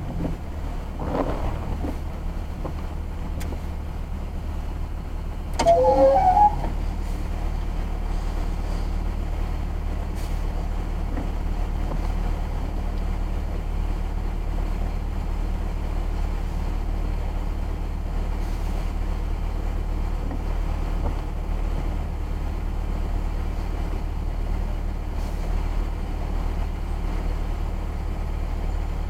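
Car driving, heard from inside the cabin: a steady low engine and road drone. About six seconds in comes a short, louder pitched sound, under a second long.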